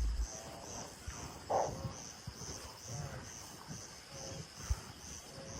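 Insect chirping in an even rhythm, about two high-pitched pulses a second, with a few faint short calls from another animal.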